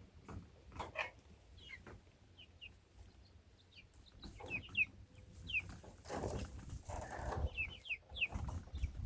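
Chicks peeping: many short, falling chirps, thicker in the second half. A rustle is heard about six to seven seconds in.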